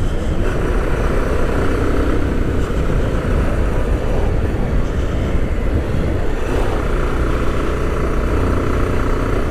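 Motorcycle riding along: a steady rush of wind over the microphone with the engine's rumble underneath.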